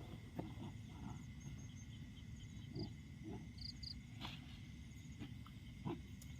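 Faint insects chirping in short, rapid pulsed trills, with a steady thin high tone over low background rumble. A few soft knocks come through, the clearest about four and six seconds in.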